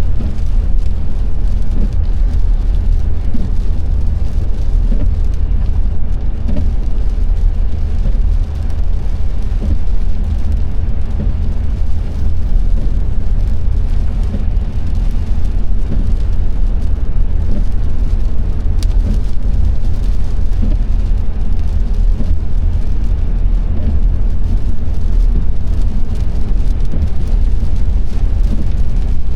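A car driving in the rain: a steady, loud low rumble of road and engine noise with a hiss of wet tyres and rain over it.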